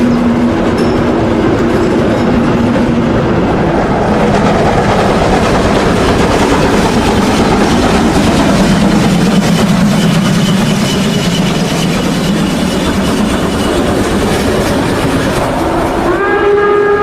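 Märklin model steam train with a long string of coke wagons running steadily, a continuous rattle of wheels on the track. Near the end a locomotive's steam whistle starts to blow.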